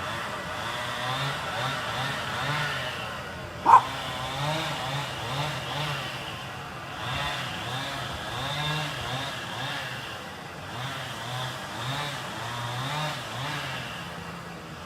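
Chainsaw running, its revs rising and falling as it cuts. A brief, loud sharp sound rings out about four seconds in.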